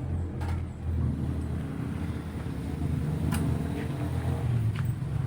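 Motorcycle engine running steadily, with a few sharp clicks over it.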